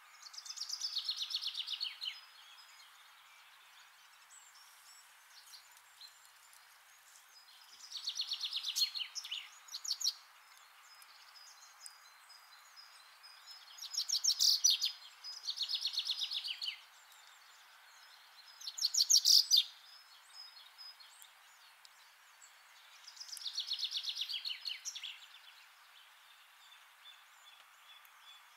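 Bird calls: a fast trill, a second or two long, repeated several times with pauses of a few seconds between, over a faint steady hiss.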